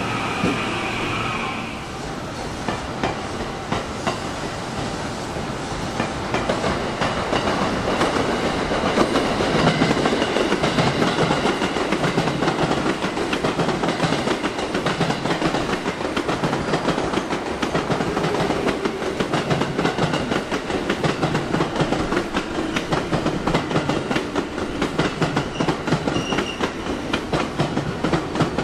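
A JR West 221 series electric train rolling slowly past on the near track, its wheels clacking over rail joints about once a second under a steady rumble. In the first second or two, a falling electric whine comes from the departing train before it.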